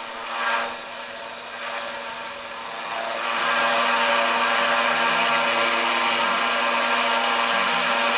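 A motor-driven sanding wheel running with a part held against it, grinding off a small edge. There is a steady motor hum under a continuous abrasive hiss that gets louder and fuller about three seconds in.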